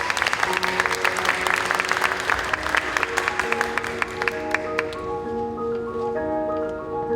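Audience applauding over recorded music; the clapping dies away about five seconds in, leaving the music's held, bell-like notes.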